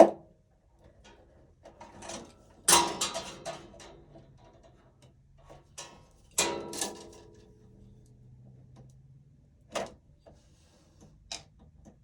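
Hands handling electrical cable, cable jacket and small tools: a sharp click, two short clusters of clacks and rustling, then two single clicks.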